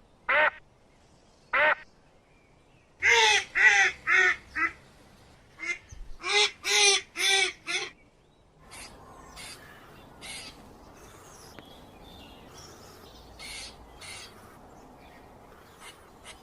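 A bird calling in short, harsh pitched notes. It gives two single calls, then two quick runs of four to six calls, then only a few faint calls over a low background hiss.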